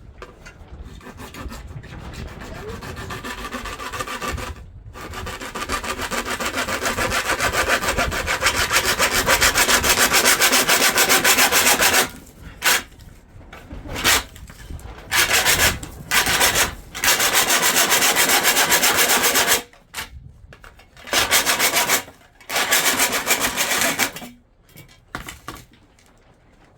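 A power tool grinding or cutting into hard material. It runs continuously for about twelve seconds, growing louder, then stops and starts in several short bursts.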